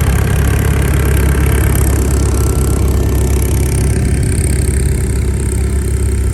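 A car's engine idling close by with a deep, steady rumble.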